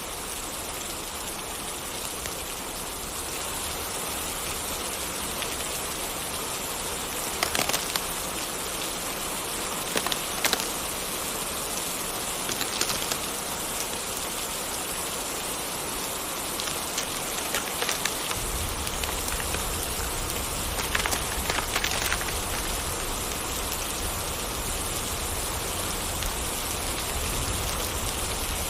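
Steady rain falling, with a few sharp clicks or crackles scattered through it. A low rumble joins it about two-thirds of the way in.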